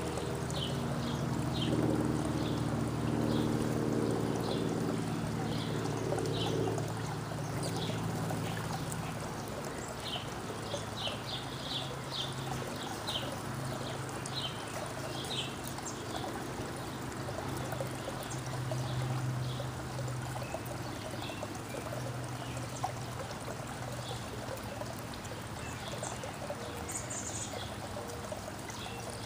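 Small birds chirping, short high notes repeated throughout, over a steady rushing background noise. A low hum with several steady tones sounds for the first several seconds and then fades to a faint drone.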